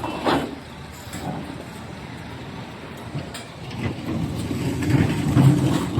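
Doosan DX390 excavator's diesel engine running, with a short sharp knock right at the start. Over the last two seconds the engine gets louder as it takes on load.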